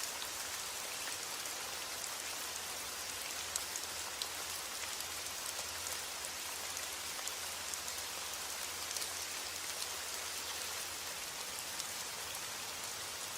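Steady heavy rain: a constant hiss with many individual drops ticking sharply on a hard surface.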